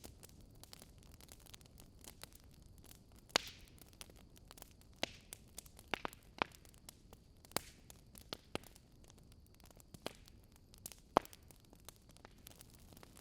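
Burning logs crackling: sharp irregular pops every second or so over a low steady hiss, two of them louder than the rest.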